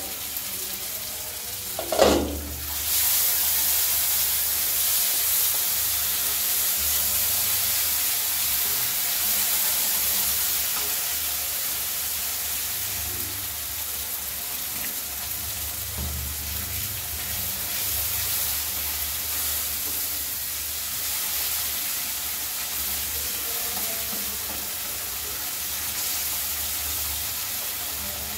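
Onion-tomato masala sizzling and frying in a nonstick kadai while a wooden spatula stirs and scrapes it. A single knock about two seconds in, then a steady hiss.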